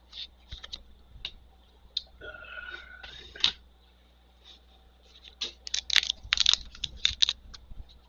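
Trading cards and their pack being handled: irregular light clicks, slaps and rustles of card stock and wrapper, sparse at first and turning into a quick dense run of crackles about halfway through.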